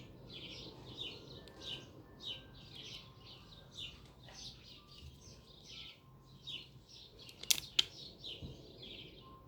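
A bird chirping over and over, about two to three short chirps a second. About seven and a half seconds in, two sharp clicks come close together.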